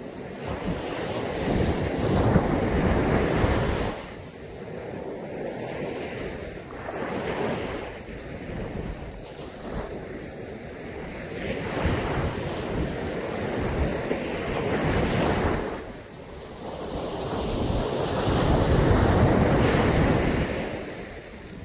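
Sea waves breaking and washing onto a beach, swelling and fading every few seconds, the loudest surge near the end. Wind rumbles on the microphone.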